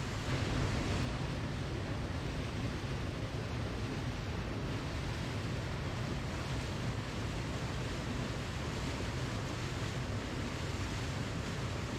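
Waterfall: falling water rushing in a steady, even stream, briefly a little louder about half a second in.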